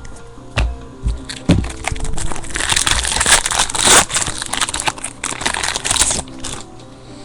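Foil trading-card pack wrapper being torn and crumpled by hand: a few handling knocks, then a few seconds of dense crinkling that stops shortly before the end. Faint background music plays underneath.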